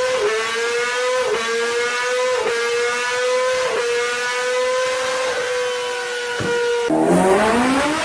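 Four-cylinder superbike engine revving very high, its pitch held near the top with short dips about every second or so. About seven seconds in the pitch drops suddenly and starts climbing again.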